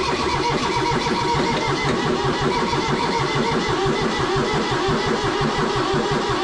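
Kubota diesel tractor engine turning over on its starter motor, cranking steadily in an even pulsing rhythm without catching, which the owner takes for the engine suddenly not getting fuel.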